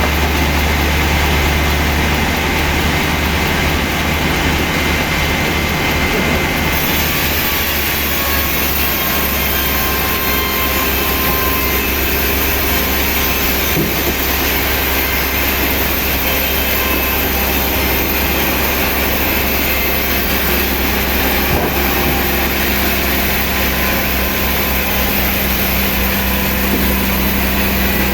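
Heavy machinery running steadily with a constant low hum, its sound changing abruptly about seven seconds in.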